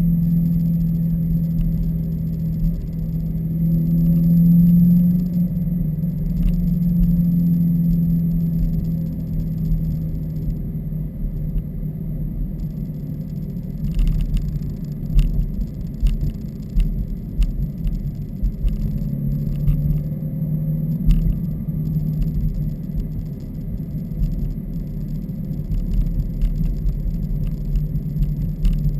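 2015 Subaru WRX's turbocharged flat-four with its axleback mufflers deleted, heard while driving: a low exhaust drone holds steady through the first ten seconds. After that the sound turns uneven, with scattered clicks and knocks, and the drone comes back briefly later on.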